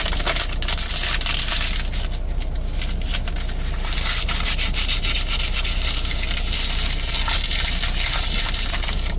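Bulk product pouring into the trailer at a mill loadout, heard from the truck cab: a loud, steady rushing hiss full of fine rattling ticks that cuts in and out sharply, over a steady low hum.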